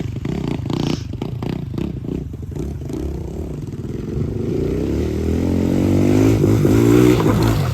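Pit bike engine running and revving, its pitch climbing over the second half as the bike accelerates, with a run of rattling knocks in the first few seconds.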